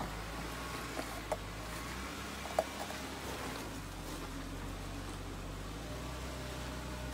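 Jeep Wrangler's engine running at low revs while the vehicle crawls over rocks, a steady low hum whose note shifts slightly a couple of times. Three short knocks in the first three seconds.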